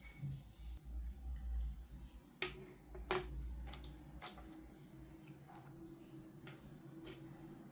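Hands handling a plastic fashion doll and its packaging: a scattering of small sharp clicks and taps, two of them louder in the first half, over low rubbing and handling noise.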